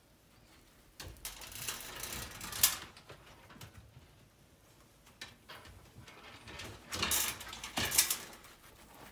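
Dog scuffling with a ball: two bursts of scraping and scrabbling, each ending in a sharp knock.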